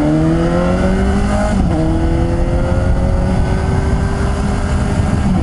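Suzuki GSX-S750's inline-four engine pulling away: revs rise, drop at an upshift about one and a half seconds in, then climb again slowly as the bike gathers speed, with another shift at the very end.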